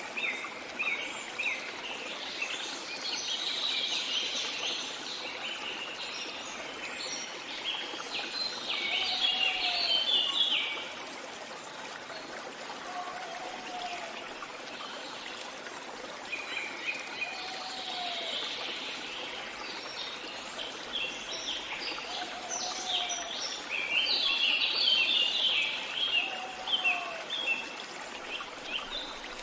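Songbirds singing over a steadily running stream. There are two long bouts of rapid, busy chirping, one in the first third and one in the last third, and a short low call repeats about every four to five seconds.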